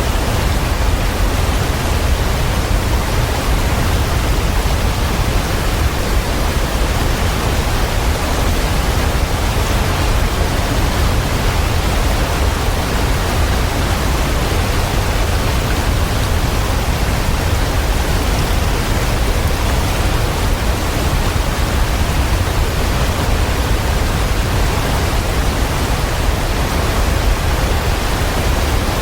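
Waterfall: a steady rush of falling water with a strong low rumble, unchanging throughout.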